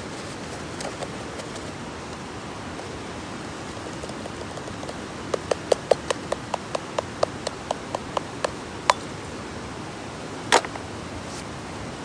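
A steady hiss, with a run of about a dozen sharp knocks, roughly three a second, starting about five seconds in, and one louder knock a little before the end.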